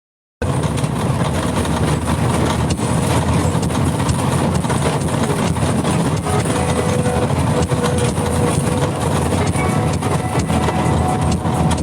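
Steady running noise of a vehicle driving along a street, engine and road rumble, after the audio drops out briefly at the very start.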